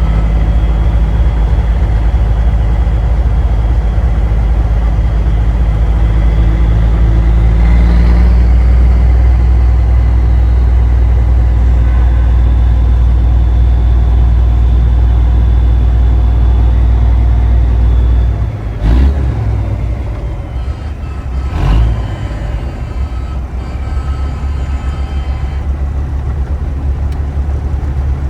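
Big-rig truck's diesel engine rumbling steadily while the truck drives along in convoy. About two-thirds of the way through there are two sharp knocks, a few seconds apart, and the engine note drops lower and quieter.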